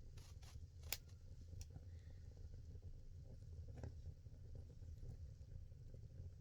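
Firewood burning in an agungi firebox: a few sharp crackling pops, the loudest about a second in and another near four seconds, over a low steady rumble of the flames.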